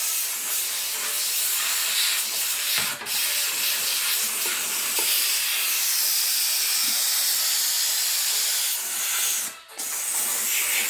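Steady high-pitched hissing noise, with a short break near the end.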